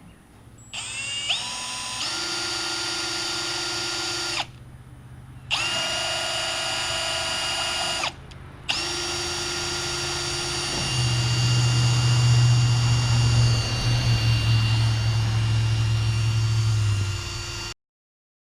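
Small electric motor of a transfer pump moving water-laden fuel out of the tank, whining as it spins up and running steadily in three stretches with two short stops. Partway through a deeper hum comes in louder, and the motor cuts off suddenly near the end.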